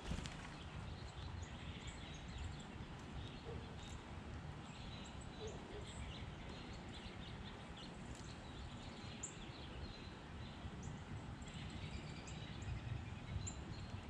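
Wild birds chirping: short, high calls scattered throughout, over a steady low background rumble.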